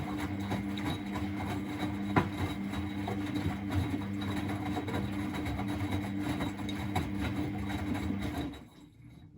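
Miele Novotronic W921 washing machine running with a steady motor hum. It cuts off suddenly near the end, leaving a fainter sound that fades away.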